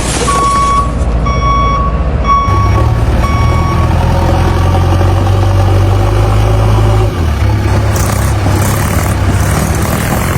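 Vehicle reversing alarm beeping about once a second over the steady low rumble of a heavy vehicle's engine; the beeping stops about four seconds in while the engine keeps running.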